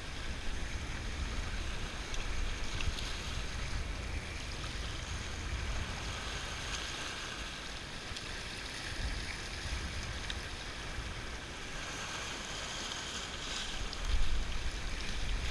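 Strong wind buffeting the microphone with a low rumble, over a steady rush of sea washing against the rocks; a heavier gust hits near the end.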